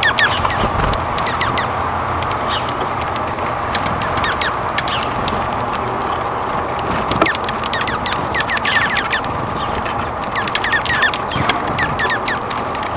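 Wild birds calling: many short, sharp chirps, coming thickest in quick runs in the second half, over a steady background hiss.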